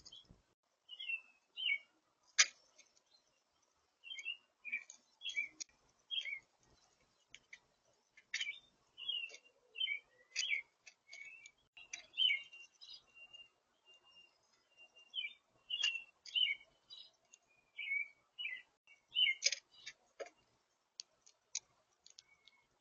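Small songbirds chirping: a steady string of short, high chirps and warbled notes, with a few sharp clicks among them.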